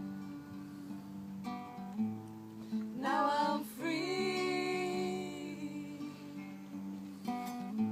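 Acoustic guitar strumming chords, with voices singing long held notes in harmony from about three seconds in.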